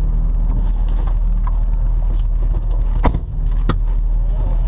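Holden VY Commodore ute engine running with a steady low rumble, with two sharp clicks a little over three seconds in.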